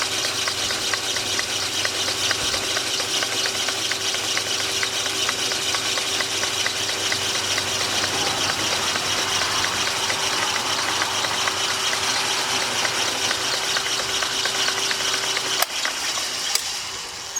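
A motor-driven machine or power tool running steadily with a held hum and a fine rapid ticking, switched off with a click near the end.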